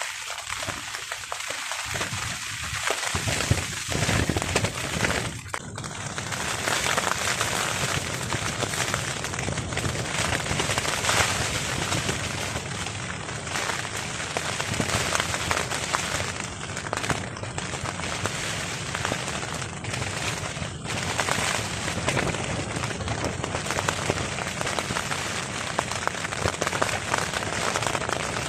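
Heavy rain pattering and drumming on a tarp overhead, a dense crackle of drops. A deeper rush of strong wind gusts fills in after the first few seconds.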